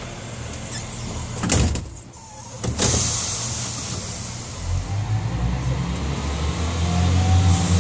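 Train doors closing: two loud clunks with a hiss of air. Then the diesel multiple unit's engine throttles up as the train moves off, a low rumble that grows steadily louder.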